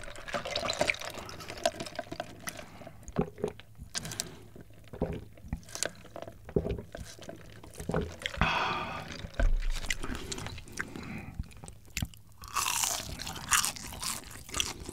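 Close-miked chewing and crunching of a breaded fried mozzarella cheese stick, with sharp crackles and wet mouth sounds. About eight seconds in, and again near the end, come longer hissy stretches of soda being sipped through a straw.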